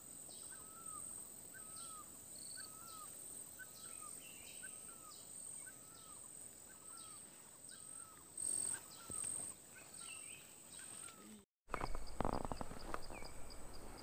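A bird repeats a short hooked call steadily, a little more than once a second, over a faint steady high whine. Near the end it cuts off suddenly, and louder outdoor noise with scattered clicks takes over.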